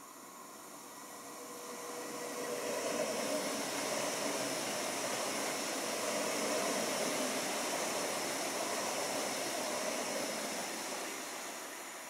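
A train passing through the station: a rushing noise of wheels on rail that swells over about three seconds, holds for about seven, then fades away.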